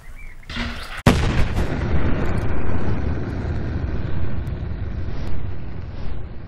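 A sudden loud blast about a second in, like a gunshot or explosion, followed by a long, dense low rumble that slowly dulls.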